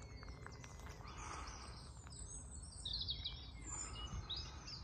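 Birds chirping and singing, busiest about three seconds in, over a steady low background rumble.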